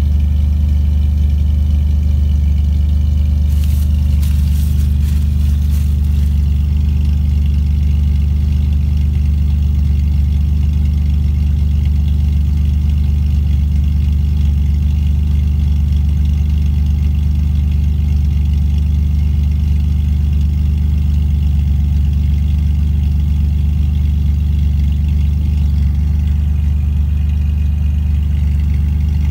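1996 Camaro's 3.8-litre V6 idling steadily, still cold a minute after a start at 29°F following a week of sitting. A few brief clicks sound about four seconds in.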